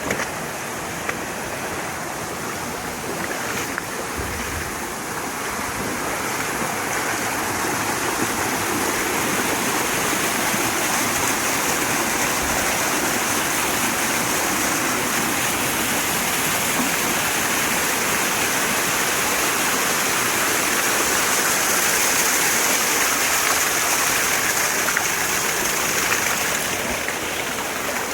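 Mountain stream rushing over rocks, a steady noise of running water that grows louder a few seconds in and eases a little near the end.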